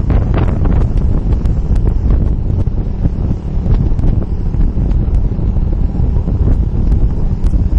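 Heavy wind buffeting the microphone, a loud low rumble from fast movement through the air, with scattered small clicks and knocks.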